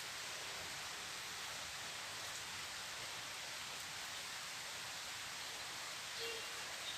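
Steady heavy rain falling, an even hiss with no thunder. A brief short tone sounds once about six seconds in.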